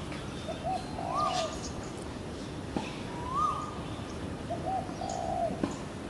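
Birds calling in low, mellow whistled and cooing notes. Near the start and again near the end, two short notes lead into a longer warbled note, with a single arched whistle between the two phrases. Faint high chirps run underneath.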